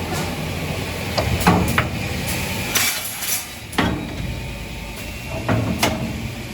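Automatic wood-cutting machine at work: about eight sharp wooden knocks and clacks at uneven intervals, over a steady machine hum.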